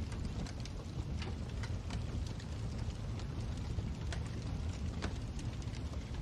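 Wood fire burning in a fireplace: a steady low rumble of flames with irregular small crackles and pops scattered throughout.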